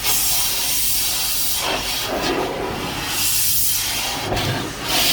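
Automatic car wash equipment hissing loudly against the car, starting suddenly and swelling and easing a few times.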